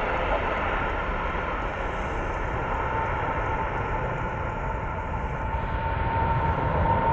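Jet engines of a Boeing 787 airliner running, a steady rumble with a thin whine that comes in about three seconds in and strengthens toward the end.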